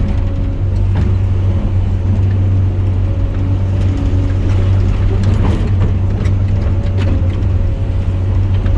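Heavy diesel loader running steadily under load, with a deep drone and a faint steady whine, and scattered clanks and knocks from the bucket and machine about a second in and several times in the second half.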